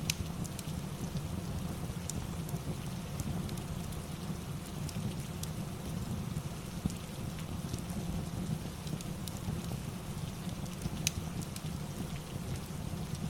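Steady rain mixed with a crackling fireplace: an even hiss over a low rumble, with scattered sharp pops.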